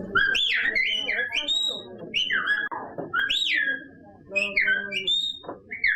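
A person whistling in Silbo Gomero, the whistled language of La Gomera: a quick series of sharp whistles swooping up and down in pitch, with short gaps between phrases.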